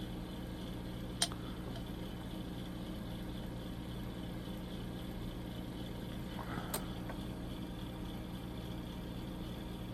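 Steady low electrical hum of workshop background, with one sharp click a little over a second in and a faint brief rustle near two-thirds through.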